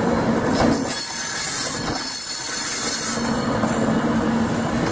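Long passenger express train running past, its wheels rumbling along the rails with a few clacks over the rail joints and a steady hum underneath.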